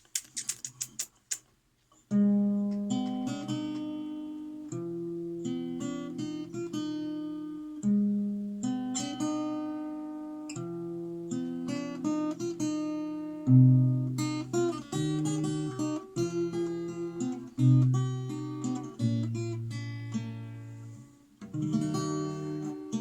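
Acoustic guitar playing a song's introduction: a few short strikes, then chords picked note by note. The playing dips briefly near the end.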